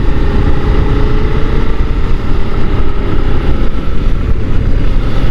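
Motorcycle engine running under steady wind rush on a helmet microphone while riding. A faint steady engine note fades out about three and a half seconds in, as the bike slows.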